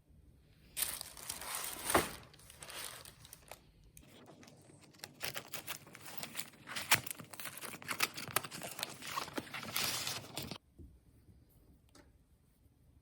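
Crinkling and tearing of packaging handled by hand, dense crackles with sharp snaps, in two stretches that stop abruptly.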